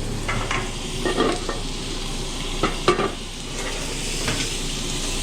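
Pieces of precooked sous-vide chicken sizzling in a hot pan while being stirred and tossed, browning for color, with a few clacks of the utensil against the pan about a second in and twice near the middle.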